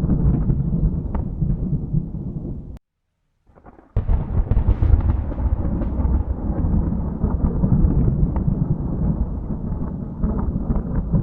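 Thunder rumbling continuously with crackles. Nearly three seconds in it cuts off to silence for about a second. A new peal then starts with a sharp crack and rolls on.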